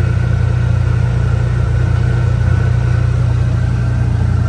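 Vehicle engine running at a steady speed while driving, a steady low hum with no change in pace.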